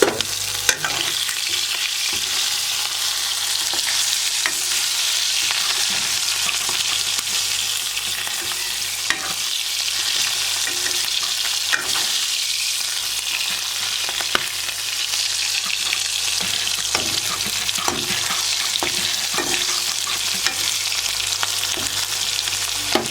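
Food sizzling steadily in hot oil in a pan while being stirred, with scattered sharp clicks of the utensil against the pan.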